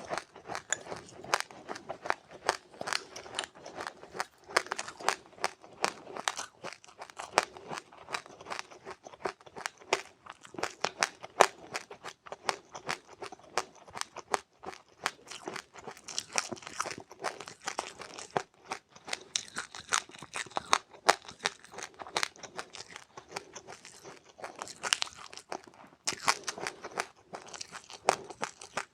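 Close-up crunching and chewing of dry seeds: a dense, uneven run of small crackling crunches.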